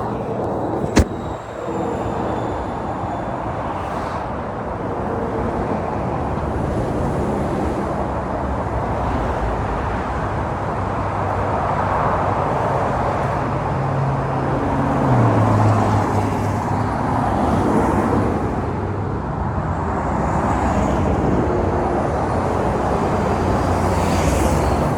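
Car engines running amid steady outdoor traffic noise; a low engine note steps down in pitch about fifteen seconds in, and there is a sharp click about a second in.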